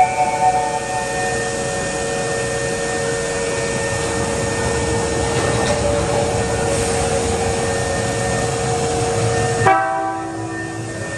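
Hankyu 5300-series electric train standing at an underground platform with a steady hum. Near the end the hum cuts off and a short horn-like blast sounds, just before the train departs.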